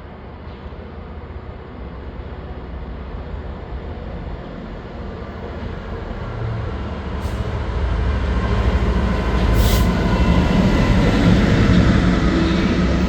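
Class 66 diesel-electric locomotive approaching with its two-stroke V12 diesel engine running under power, a low throb growing steadily louder as it nears. A brief sharp sound comes near the ten-second mark.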